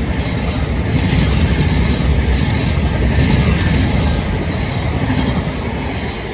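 A Class 700 electric multiple unit passing by: a rumble of wheels on rail that builds over the first second, holds strongest for a few seconds, then fades away near the end.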